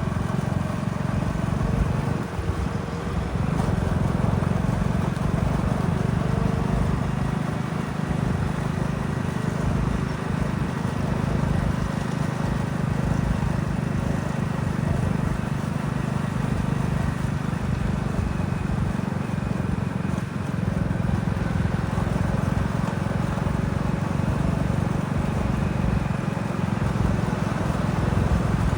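Heavy vehicle engine running steadily, a low, even hum.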